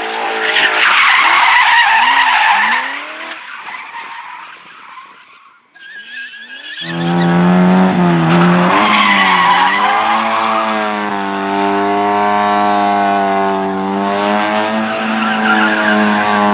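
Rally cars at racing speed: one engine at high revs passes loudly and fades away over a few seconds, then about seven seconds in another engine cuts in suddenly and runs loud at high revs, its pitch wavering as the driver works the throttle.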